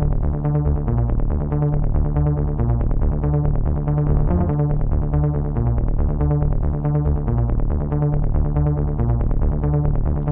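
Electronic trance-style music made in FL Studio: sustained synthesizer chords and a bass line over a steady pulsing beat.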